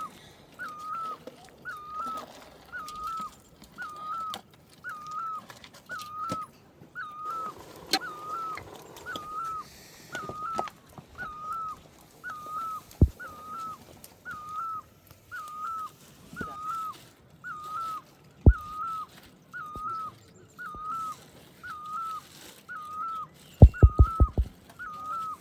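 A short whistled call, rising then falling, repeated very evenly about once a second, typical of a bird calling. A few sharp clicks, and a quick run of knocks about a second before the end.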